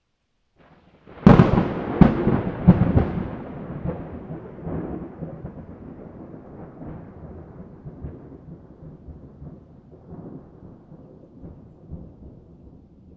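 A thunderclap: sharp cracks start about a second in, a few more follow over the next two seconds, then a rumble rolls on and slowly fades.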